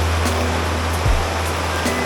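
Rushing water, a steady dense hiss, with background music over it.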